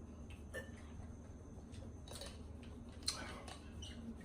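Faint, scattered soft clicks and small noises of a person eating and handling food, over a low steady hum.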